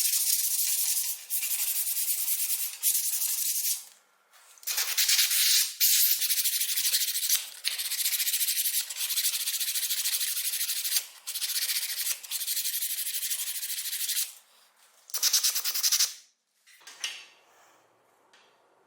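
Rapid abrasive rubbing strokes on a hard surface, in runs of one to three seconds with short breaks. It stops about sixteen seconds in, leaving a few faint ticks.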